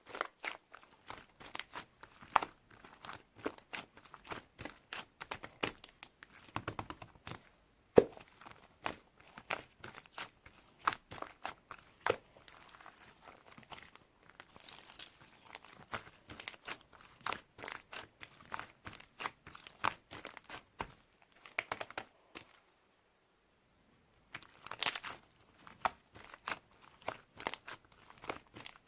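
Clear slime being squeezed and stretched, giving off dense, irregular small pops and crackling clicks as trapped air bursts, with a short silent pause about three-quarters of the way through.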